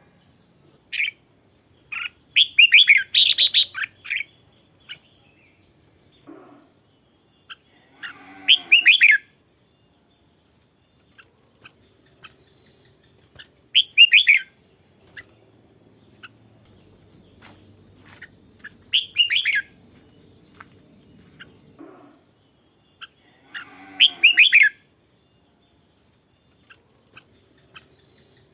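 Red-whiskered bulbul singing short, bright warbled phrases of about a second each, repeated roughly every five seconds. A faint steady high-pitched whine sounds underneath throughout.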